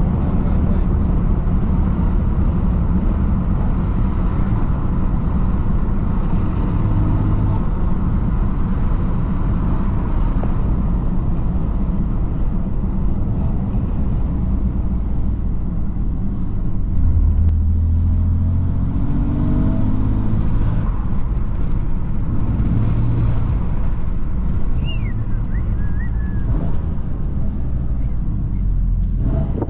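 BMW M3 F80's 3.0-litre twin-turbo inline-six engine and exhaust running under way at low revs, rising in pitch as it accelerates about two-thirds of the way through, then settling back to a steady drone.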